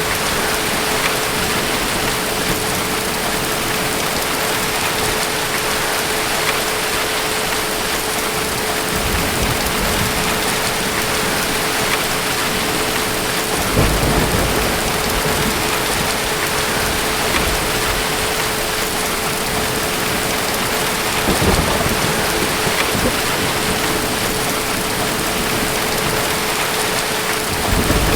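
Steady heavy rain falling, with low rumbles of distant thunder swelling up several times, about 9, 14 and 21 seconds in and again at the very end.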